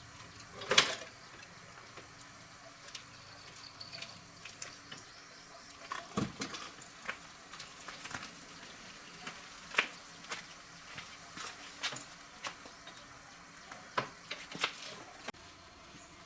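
Irregular light knocks and clicks of hard objects being handled, the loudest about a second in, with a cluster of sharper taps in the last few seconds.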